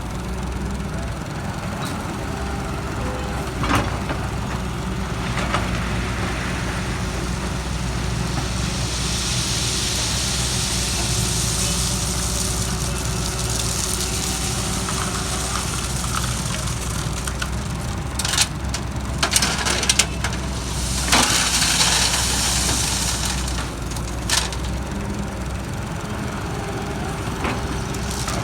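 JCB JS160 wheeled excavator's diesel engine running steadily under working load. A hiss swells through the middle, and several sharp knocks and cracks come near the end, as the machine works.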